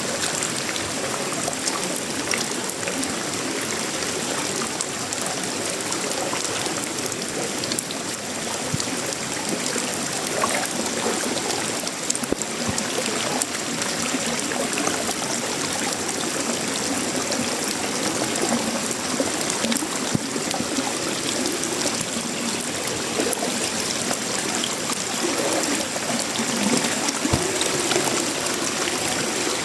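Steady, heavy tropical rain falling on sheet-metal roofing, wood and leaves: a dense hiss of countless drop impacts, with water running and trickling off. A few faint gurgles come near the end.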